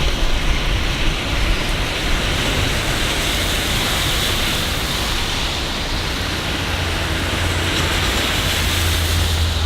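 Steady rain falling in a city, a dense even hiss, with a low rumble building under it in the last few seconds.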